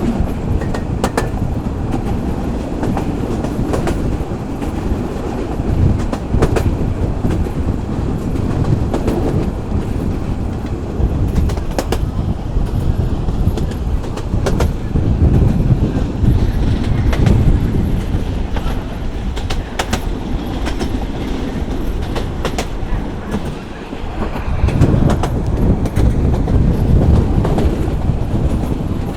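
Local passenger train running along the track: a steady rumble of the wheels and carriages, with the clickety-clack of wheels passing over rail joints.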